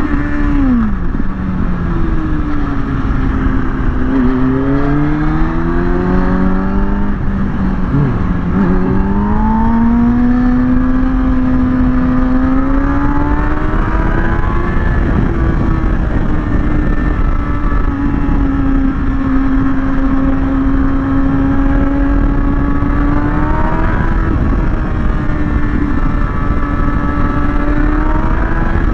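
Kawasaki ZX-6R's inline-four engine under way at road speed, its pitch dropping and climbing again several times with gear changes and throttle. Heavy wind rush on the microphone runs under the engine.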